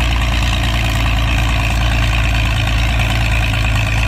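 Diesel Oliver tractor's naturally aspirated diesel engine running steadily under heavy load as it pulls the sled, still hooked and not bogging down.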